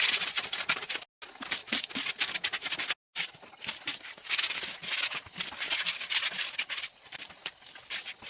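Quick, repeated rough scraping strokes of a hand tool working wood, like sanding or scraping, broken by two brief dead-silent gaps.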